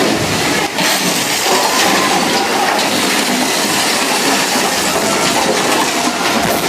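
Mine-train roller coaster cars running along the track at speed: a loud, steady rattle and rush.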